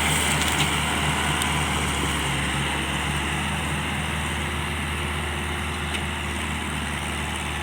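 Heavy diesel engine running steadily at low revs, with an even, pulsing throb.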